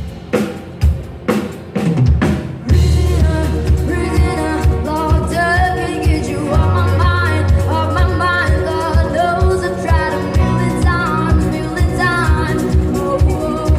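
Live band music played loud: a few seconds of drum hits alone, then the full band comes in with bass and a singer.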